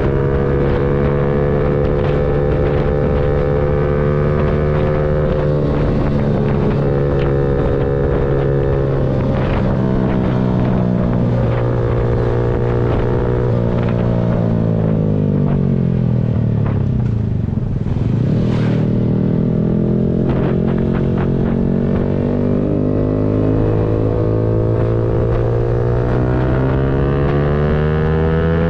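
Yamaha MT-125's single-cylinder four-stroke engine riding through the gears: the engine note steps with gear changes, drops steeply for a few seconds about halfway as the bike slows, then climbs steadily as it accelerates again.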